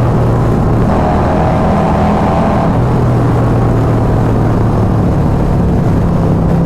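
Motorcycle engine running steadily while riding, its note shifting a couple of times, under rushing wind noise.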